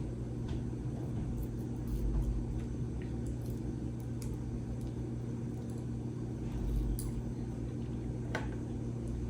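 Steady low hum in a small kitchen, with a few faint clicks and light taps scattered through it.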